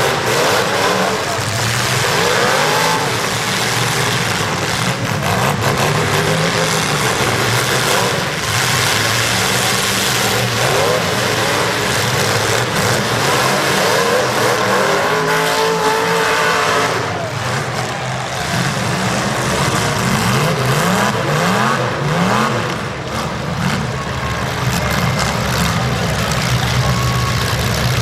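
Several demolition derby cars' engines revving together, their pitches rising and falling over one another, with scattered sharp knocks through the din.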